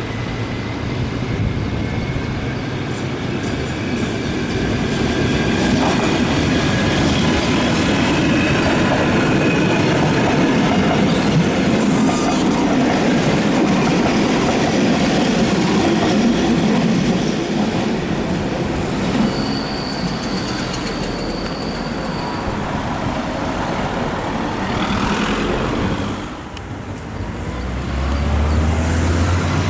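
Red Appenzeller Bahnen electric train running on the track, its wheels rumbling steadily over the rails. A high wheel squeal is held for about three seconds just past the middle.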